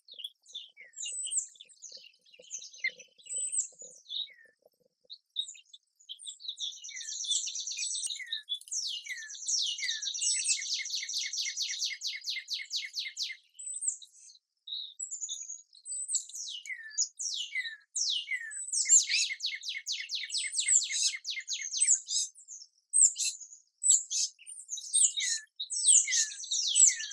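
Small songbirds singing: quick downward-sliding chirps and high calls, with two long rapid trills in the middle and near the end.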